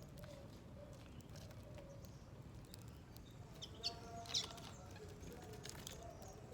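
Small wild birds at a seed feeder: two short, sharp chirps about four seconds in, amid scattered light clicks and faint calls.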